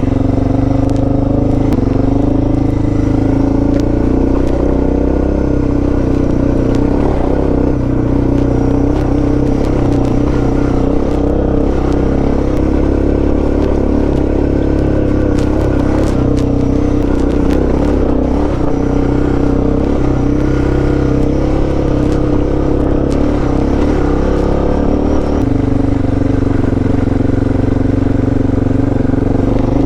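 Suzuki DR650's single-cylinder engine running steadily under way at an even pace; the note shifts slightly near the end.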